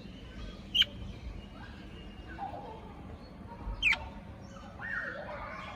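Pet parrot calling: two short sharp chirps, one about a second in and a downward-sweeping one near the middle, with softer, lower calls between.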